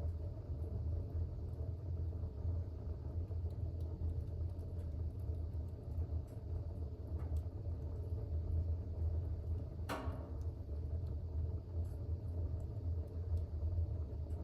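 Fire burning in a fireplace with a steady low rumble, and one sharp crackle about ten seconds in.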